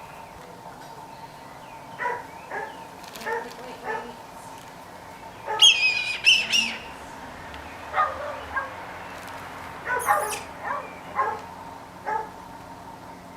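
Short animal calls repeated every second or so, with a louder, higher, wavering call about six seconds in.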